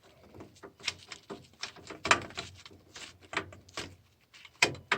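Sheet metal screws being turned in by hand with a Phillips screwdriver on the water feeder's metal housing: a run of irregular clicks and scrapes, one or two a second, with a sharper click near the end.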